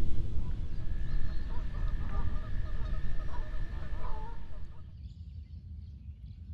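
Waterfowl honking in short broken calls over a heavy low rumble, with a steady high tone running under them. It all drops off abruptly about five seconds in.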